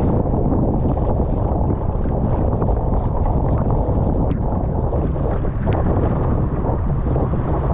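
Strong 25–30 knot wind buffeting the microphone, a loud, steady low rumble, with a few faint short ticks.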